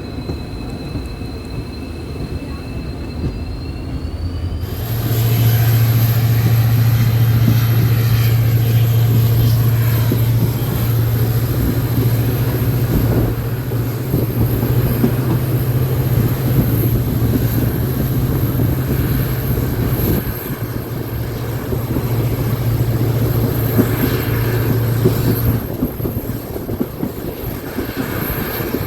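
Train running on the track with rumbling noise throughout. About five seconds in, a strong steady low hum sets in abruptly and lasts until a few seconds before the end. For the first few seconds two faint thin whines are heard.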